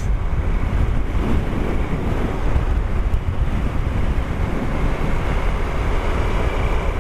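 Wind rushing over the camera microphone on a moving motorcycle, a steady low rumble with the bike's engine and road noise underneath.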